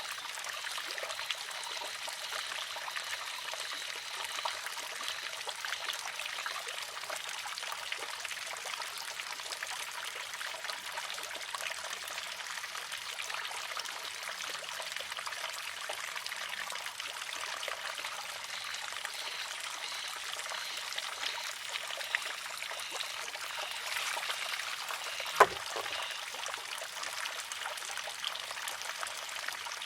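Water trickling steadily into and around a wooden shishi-odoshi. About 25 seconds in, its pivoting arm tips and strikes the stone with one sharp clack.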